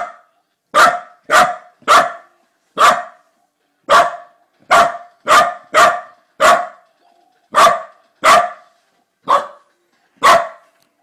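A dog barking at an iPad held out to it, in short sharp single barks, about fourteen of them, spaced irregularly one or two a second.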